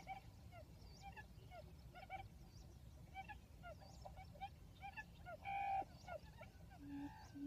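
Birds calling: many faint, short chirps repeated several times a second, with one louder, fuller call about five and a half seconds in.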